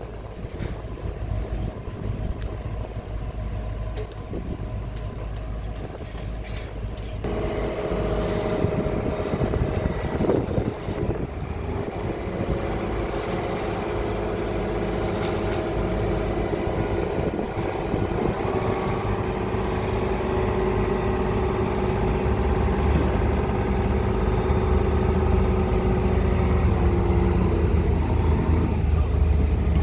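Heavy diesel engine of a pile-driving rig running steadily, coming in over a low rumble about seven seconds in and growing gradually louder, with a few scattered knocks.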